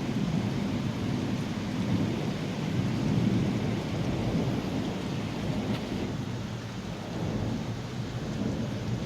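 Thunder rumbling over steady rain. The rumble swells up just before the start, peaks about three seconds in, then rolls on at a lower level.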